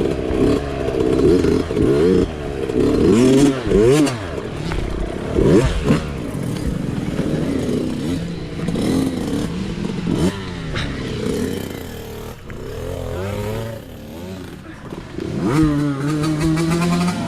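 Mini bike engine revving up and down repeatedly as it is ridden, easing to a lower, steadier running note near the end.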